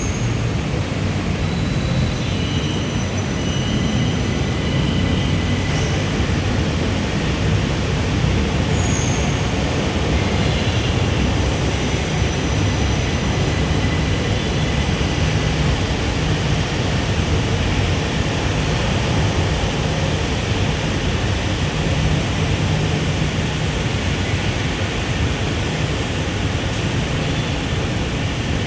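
Jakarta LRT train running, a steady rumble of wheels on the track, with a few faint high-pitched squeals in the first several seconds.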